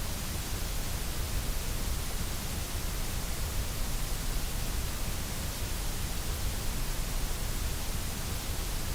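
Steady, unchanging synthetic white noise: an even hiss spread across the whole frequency range, with no rhythm or breaks.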